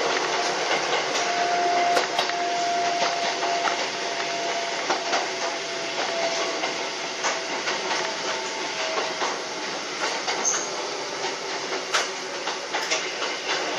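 Hakone Tozan Railway electric train running uphill, heard from the driver's cab: a steady rumble of wheels on rail with irregular clicks over the rail joints. From about a second in until about nine seconds in a thin squeal of the wheels on the curving track sounds over it, sinking slightly in pitch.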